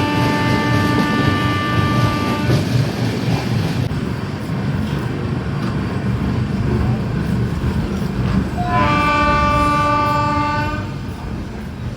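Train running with a steady rumble while a locomotive horn sounds twice: one blast of about two and a half seconds at the start, and another of about two seconds near the end.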